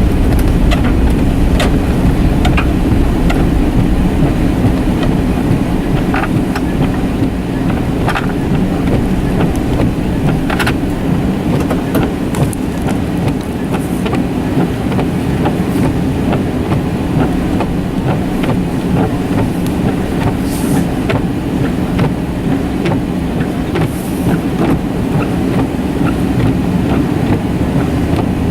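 Car driving on a snowy road, heard from inside: a steady low rumble of engine and tyres, with scattered light clicks.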